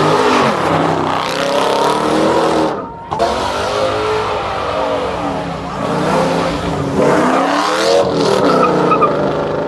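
Car engine revving hard, its pitch rising and falling over and over, with tyre squeal from spinning wheels. The sound dips briefly about three seconds in.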